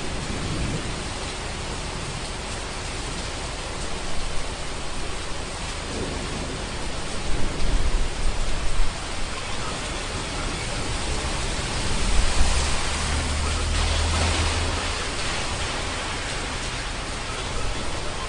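Steady heavy rain with rolling thunder: low rumbles come in a little before halfway and again past the middle, the second one longer.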